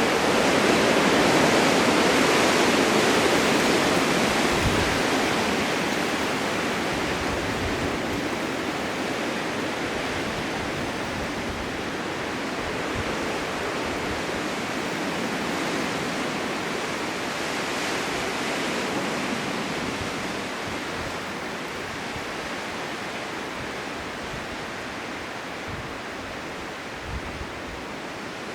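Blizzard wind blowing as a steady rushing noise in slow gusts, swelling in the first few seconds and again about two-thirds through, then easing off toward the end.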